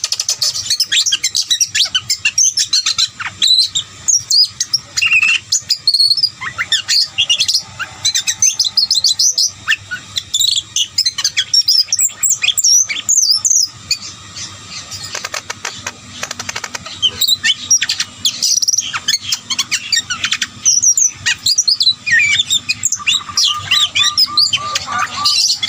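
Many small birds chirping and twittering in quick, overlapping calls, with a short lull about halfway through.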